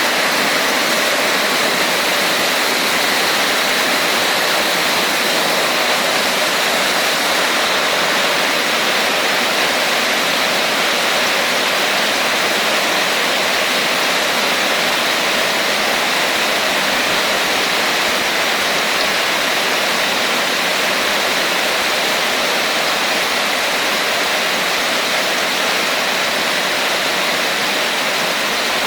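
Heavy rain falling steadily, a dense even rush without separately heard drops.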